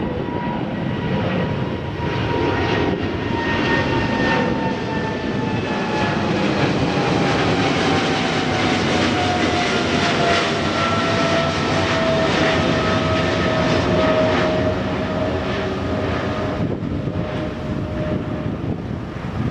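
Jet airliner going past: a steady engine roar with a whine that slowly falls in pitch as it passes, then fades near the end.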